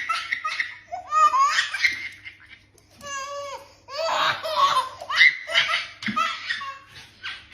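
A person laughing hard in repeated bursts of high-pitched belly laughter, with short breaks between bouts.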